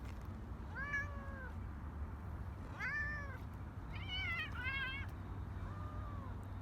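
A cat meowing about five times, short arching calls a second or so apart; the fourth and fifth waver in pitch and the last is fainter.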